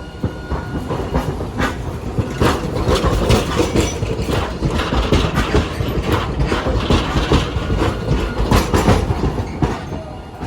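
Hiroshima Electric Railway streetcar rolling over rail joints and pointwork, giving a quick, uneven series of wheel clacks and knocks over a low running rumble. It builds about two seconds in and eases off near the end.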